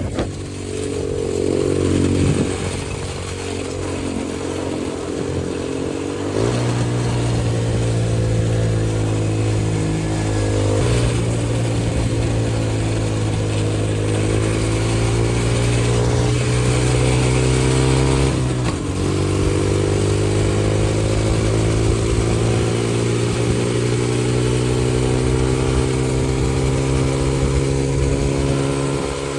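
X-Pro 125cc single-cylinder four-stroke dirt bike engine running while ridden, its note holding steady and then changing pitch abruptly a few times.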